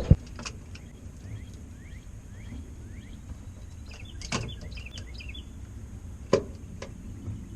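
Sharp clicks and knocks of pliers working at a hose stuck on a bilge pump housing: a loud one at the start, a few more about four seconds in, and another a little past six seconds. Small birds chirp in the background.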